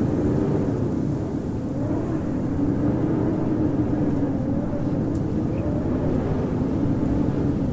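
Howling wind of a snowstorm: a steady low rumble with a whistling howl that slowly wavers in pitch.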